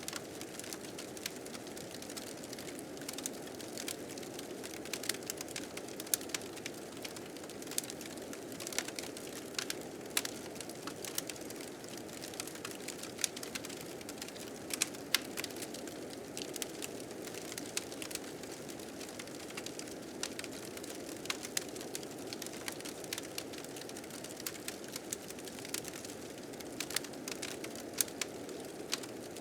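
Wood fire crackling with frequent sharp, irregular pops over a steady low rush of blizzard wind.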